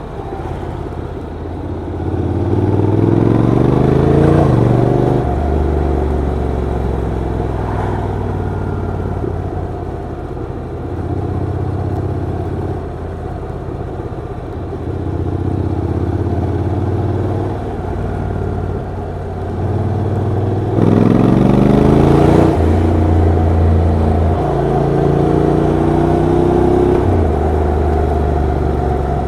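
Honda NC750X parallel-twin motorcycle engine and exhaust under way, pulling up through the revs twice, a few seconds in and again about two-thirds through, each time dropping suddenly in pitch at a gear change, and otherwise running steadily at cruising revs.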